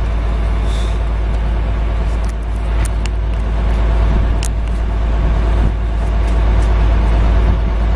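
Heavy vehicle engine running steadily with a deep low rumble, with a few light clicks and knocks over it.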